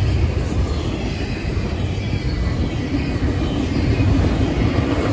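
Double-stack intermodal container train passing at speed: a steady, loud rumble of steel wheels on the rails, with a faint high wheel squeal.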